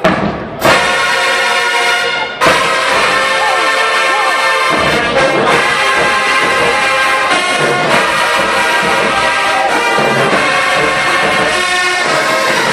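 College marching band's brass section playing loud, full horn music with drums, cutting in with a sudden hit about half a second in, pausing briefly near two and a half seconds, then playing on steadily.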